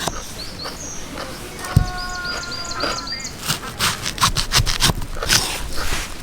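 A small bird chirping, short high notes repeated, with a quick run of about six chirps a couple of seconds in. A dull thud comes just before that run, and a spell of sharp clicks and knocks from camp gear being handled fills the second half.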